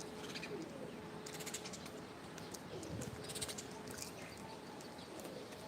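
Pigeons cooing in low, gliding notes, with clusters of short, high bird chirps over them several times.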